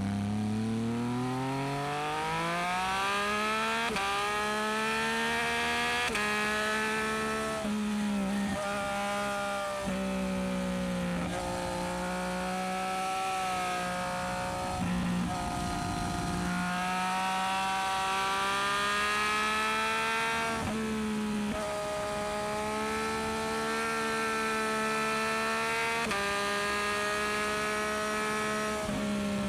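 Yamaha MT-09SP inline-three engine through a Dominator aftermarket exhaust, revving up from low revs over the first few seconds, then holding steady high revs under way, with several brief dips in revs as the throttle is rolled off or gears change.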